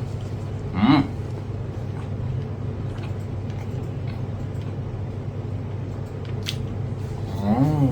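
A person chewing food with wet mouth sounds and faint clicks, over a steady low hum. Two short hummed "mm" vocal sounds come about a second in and near the end.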